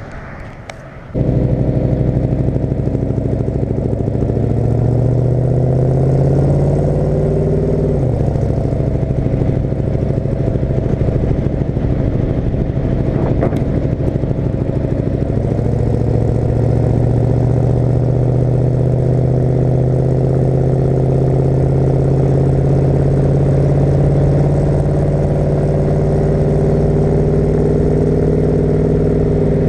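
1972 Chevrolet C20's big-block V8 exhaust under way, cutting in abruptly about a second in. The engine note rises as the truck accelerates, drops sharply at an upshift about a quarter of the way through, then holds a steady cruising drone that slowly climbs.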